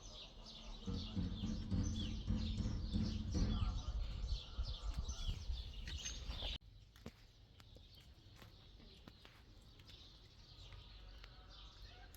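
Small birds chirping in a rapid stream of short, downward-sliding calls over a low rumble. About six and a half seconds in, it cuts off abruptly to a much quieter background with faint clicks.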